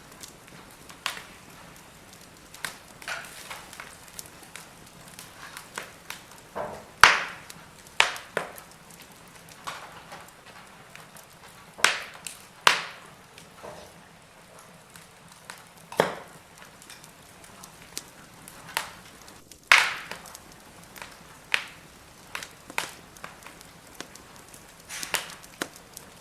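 Firewood burning in a fire pit, crackling with irregular sharp pops over a faint steady hiss; a handful of louder snaps stand out among the smaller crackles.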